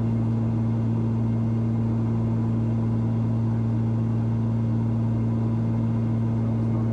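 Cessna 340's twin turbocharged six-cylinder piston engines and propellers droning steadily in cruise, heard inside the cabin as an even low hum.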